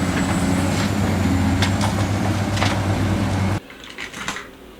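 Toy excavator making a steady, rough engine-like hum that cuts off abruptly about three and a half seconds in, followed by a few faint clicks.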